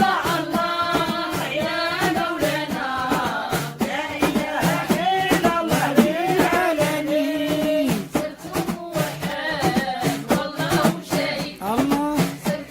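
Devotional dhikr singing, a voice holding long notes that waver and bend, over steady drum beats.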